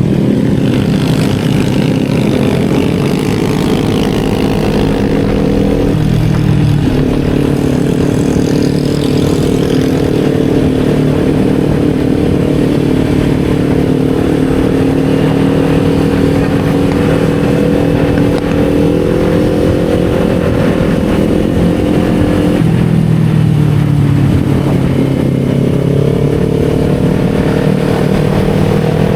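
Kawasaki Z400's parallel-twin engine running under way on the road. Its note steps suddenly about six seconds in and again about twenty-two seconds in, then climbs steadily toward the end.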